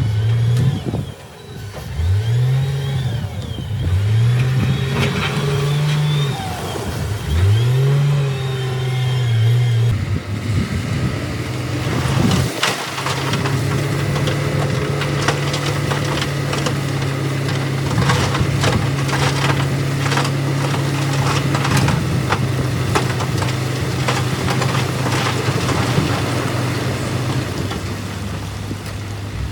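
Diesel engine of a heavy earthmoving machine revving up several times in quick succession, then held at steady high revs. Many sharp clanks and knocks run through the second half.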